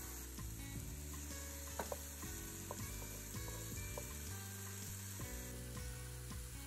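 Sliced mushrooms and minced garlic sizzling in oil in a nonstick frying pan, stirred, with a few sharp clicks of the utensil against the pan. Soft background music plays underneath.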